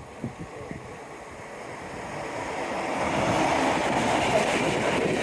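A train approaching on the line beside the seawall and passing close by: a rumble of wheels on rail that swells over the first three seconds and then holds loud and steady. A few soft footsteps are heard early on.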